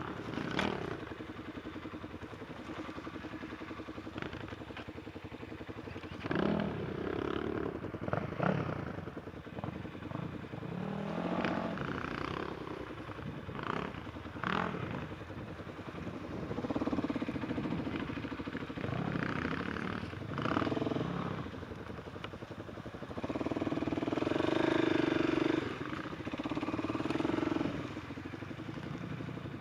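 Enduro motorcycle engine running, revved up in repeated surges and dropping back to a lower steady running between them, the longest surge near the end.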